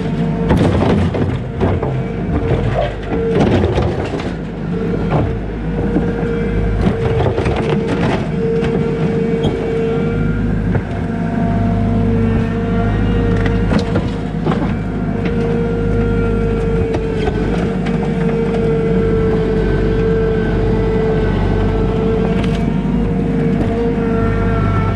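Skid steer loader at work: the diesel engine running steadily under a constant hydraulic whine. Knocks and rattles from the bucket and tracks come often in the first several seconds, then the machine runs on more evenly.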